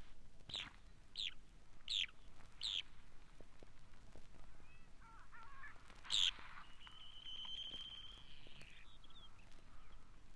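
Western sandpiper calling: four thin, high notes that fall in pitch, about two-thirds of a second apart, then some soft chatter, one louder call, and a drawn-out high note lasting about two seconds.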